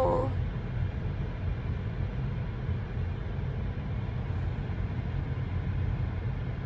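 Steady low rumble inside a car with the engine running.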